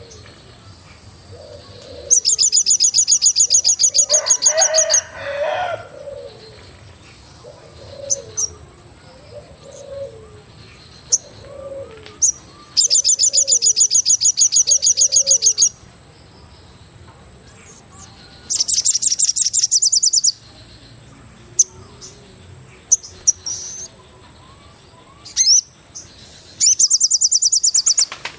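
Forest birds calling. A high, fast trill comes in loud bursts of two to three seconds, four times. Between the first two bursts, lower cooing notes repeat about once a second, over a thin steady high whine.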